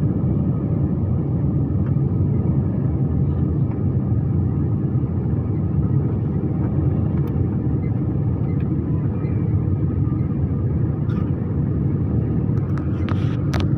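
Steady low rumble of a Rolls-Royce jet engine on an airliner, with a few short clicks near the end.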